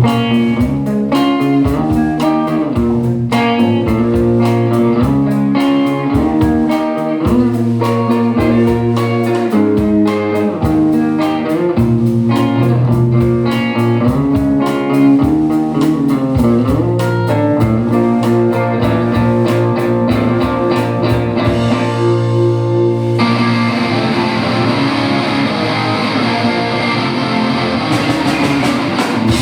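Rock band playing an instrumental passage: electric guitar over bass with sharp, regular drum hits. About 23 seconds in the sound thickens, with a steady wash filling the high end.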